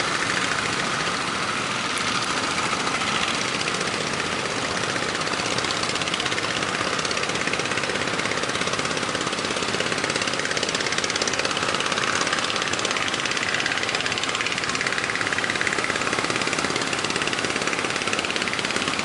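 A motor engine running steadily at an even speed, with a rapid, fine pulsing and no change in pitch.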